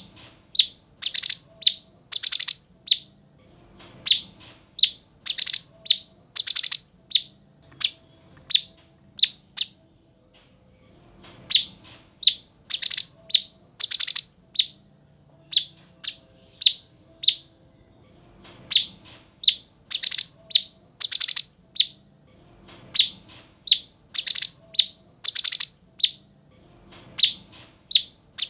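Cucak cungkok song: loud, sharp, very high chirping notes in quick clusters of two to four, with short hooked calls between them. A phrase comes every second or two in a regular repeating pattern, as in a looped masteran recording for tutoring caged songbirds.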